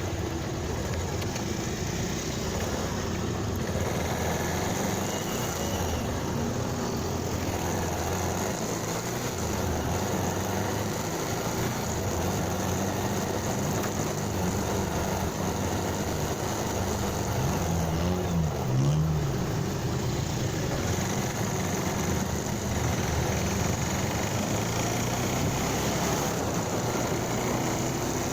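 Motorcycle engine running while riding, with wind and road noise. The engine note holds fairly steady, with a brief rise and fall in pitch about two-thirds of the way through.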